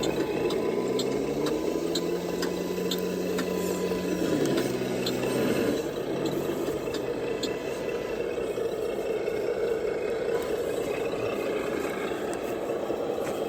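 Simulated diesel engine sound from an RC scale truck's sound module rising in pitch, holding steady for a few seconds, then falling back and dying away about halfway through. Under it a steady whir from the drivetrain, with light regular ticks and rattles.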